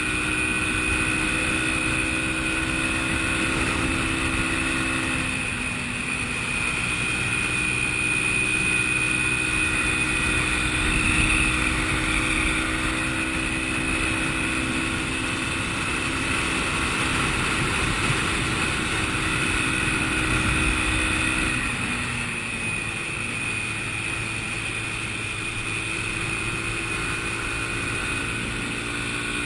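Motorcycle engine running steadily under way, its pitch falling and picking up again about five seconds in and again about twenty-two seconds in.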